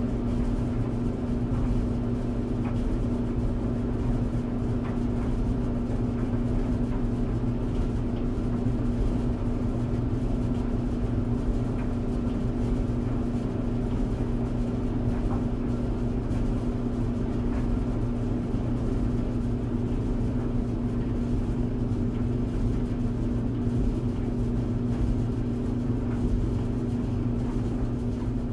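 Tumble dryer running steadily: a constant low motor hum and drum rumble, with faint scattered ticks.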